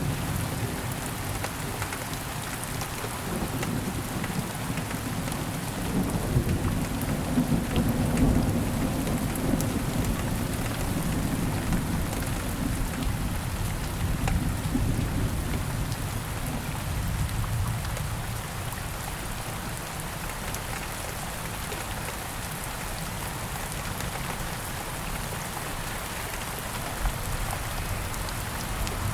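Steady rain pattering down, with a low rolling rumble of distant thunder that swells in the first half and fades.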